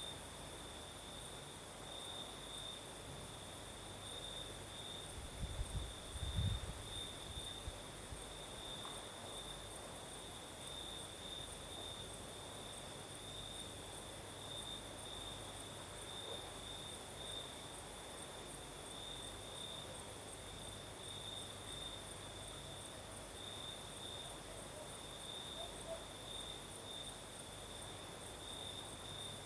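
Crickets chirping on and on in a steady high trill, with a second, higher-pitched insect chorus above it. About six seconds in, a brief low gust of the night breeze rumbles on the microphone.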